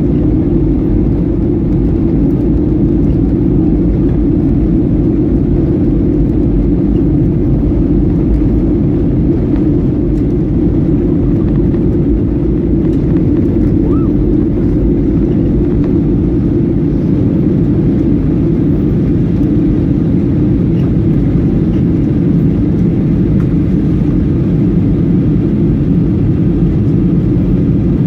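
Steady cabin noise inside a Boeing 737 in flight: an even, low rumble of the engines and airflow, heard from a window seat near the rear of the cabin.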